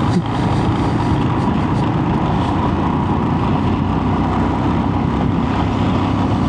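Royal Enfield Himalayan's single-cylinder engine running steadily on the move, under a constant rush of wind and road noise.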